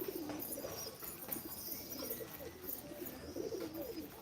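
Pigeons cooing, several low warbling coos one after another.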